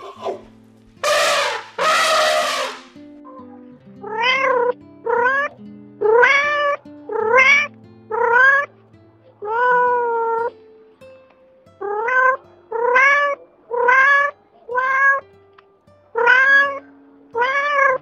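An elephant trumpeting twice in the first few seconds, then a cat meowing over and over: about a dozen short meows, each rising and falling, roughly one a second, over soft background music.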